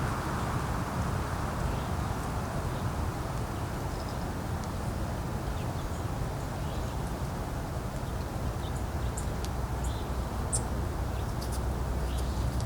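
Steady wind blowing, with a low rumble on the microphone. Short, faint, high bird chirps and ticks come over it, more often in the second half.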